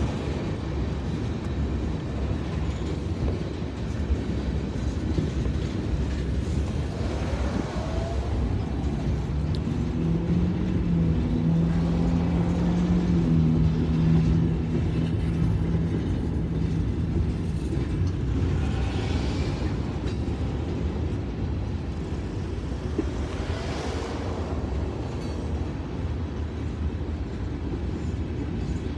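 Kansas City Southern freight train rolling past, a steady rumble of wheels and cars on the rails. A low hum is strongest from about ten to eighteen seconds in.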